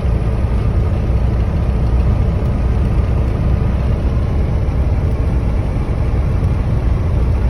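Steady low rumble of a semi-truck's diesel engine and road noise, heard from inside the cab while driving.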